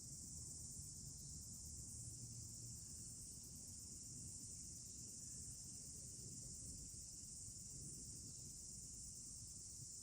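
A steady, high-pitched chorus of insects chirring without a break, over a faint low rumble.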